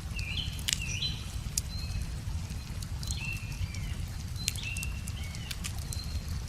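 Wood fire crackling with frequent sharp pops, while birds sing short chirping phrases in three bouts, under a steady low rumble such as a nearby river.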